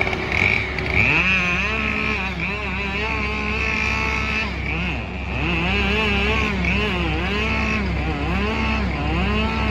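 Vermeer S925TX mini skid steer's engine running hard. From about a second in, its pitch sags and recovers again and again, roughly once a second, as the machine works.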